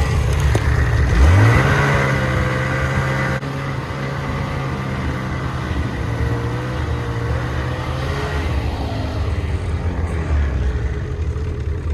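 Snowmobile engine revving up about a second in, then running at a steady pitch under way.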